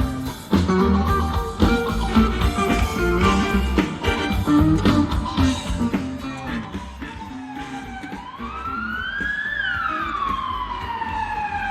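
Band music with guitar and a steady beat for about the first six seconds, fading out. Then, from about eight seconds in, an emergency-vehicle siren starts wailing, its pitch rising and falling slowly in a cycle of a few seconds.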